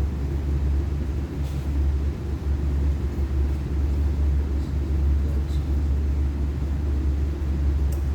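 Steady low hum of running machinery, with a few faint ticks.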